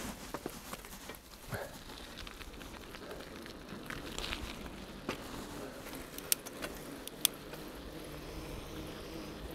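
Bicycle on the move: rattling and a scatter of sharp clicks from the bike over the road, with a steady low hum coming in from about halfway through.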